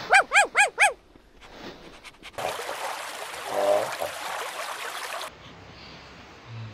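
A poodle puppy yipping four times in quick succession, high-pitched and loud. Then water splashing and rippling as a duck dabbles, with one short duck call midway.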